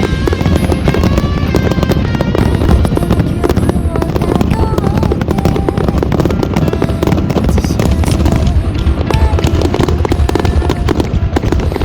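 Fireworks crackling and popping in a dense, continuous barrage, with music playing over them.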